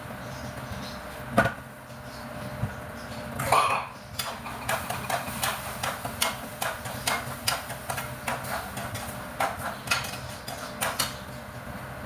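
Kitchen clatter: a few sharp knocks, then a quick, irregular run of clicks and knocks of utensils and cookware, over a steady low hum.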